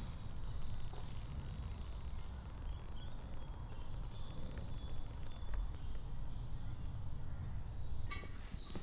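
Small birds chirping and trilling faintly over a steady low rumble, with a few quick clicks near the end.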